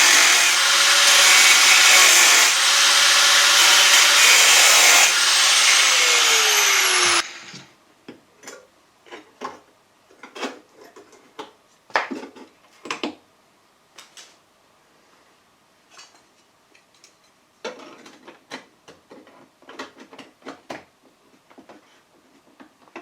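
Angle grinder with a thin cutting disc cutting sheet steel, running with a steady high whine, then winding down in pitch and stopping about seven seconds in. After that, scattered light clicks and taps of metal being handled.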